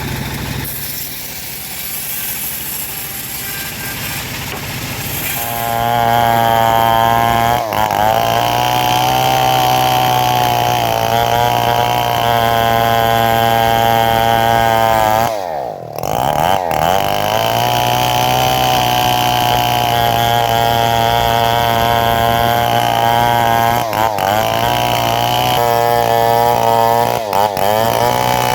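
Engine-powered saw cutting mahogany wood: it runs lower for the first few seconds, revs up about five seconds in and holds high under load, drops sharply about halfway through and picks straight back up, with a couple of brief dips near the end.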